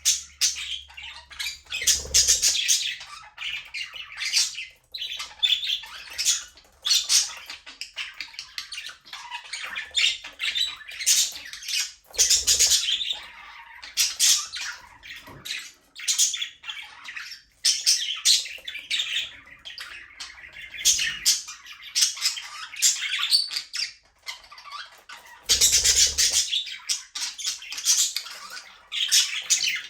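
A flock of budgerigars chirping and chattering continuously, with busy overlapping warbles, squawks and sharp calls that swell into louder flurries about 2, 12 and 26 seconds in.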